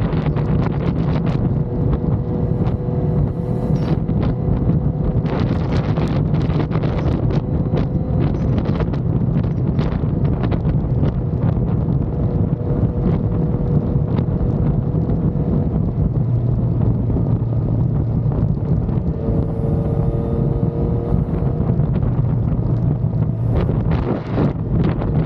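Yamaha XSR900's inline-three engine running steadily as the motorcycle rides along, its note shifting a little partway through. Wind buffets the microphone.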